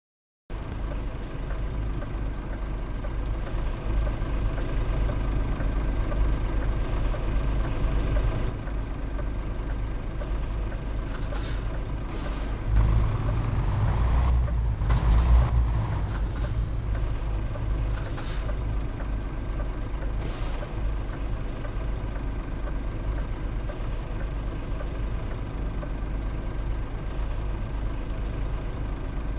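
Truck engine running steadily, getting louder for a few seconds around the middle, with about six short hisses of air between about 11 and 21 seconds in.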